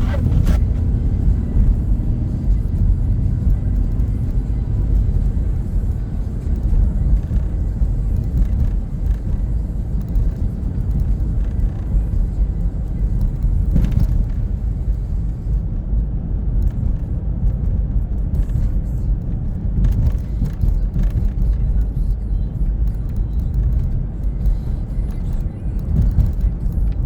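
Steady low road and engine rumble inside a moving car's cabin, with a few faint knocks from bumps.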